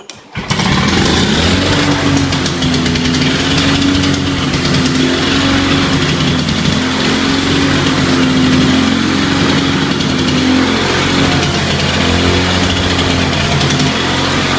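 Lawn-Boy 10323 lawn mower engine started cold with a pull of the recoil starter, catching at once and then running steadily at speed with a slight waver in its pitch.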